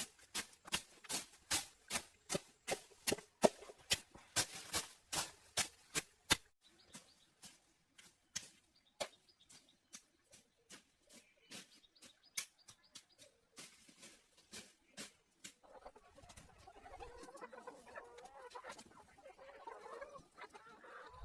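A quick, even run of sharp knocks, about three a second, that thins out to sparser, fainter knocks after about six seconds. From about sixteen seconds a softer, irregular jumble of animal-like sound takes over.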